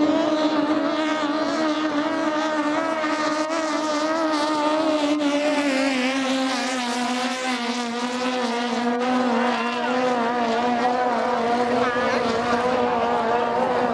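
High-speed motorboat engine running hard at high revs, its pitch holding and then easing slightly lower about six seconds in.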